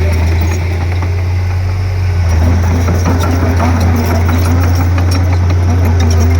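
Diesel engine of a Komatsu D31P crawler bulldozer running steadily, with a deep, constant hum and scattered sharp clicks over it.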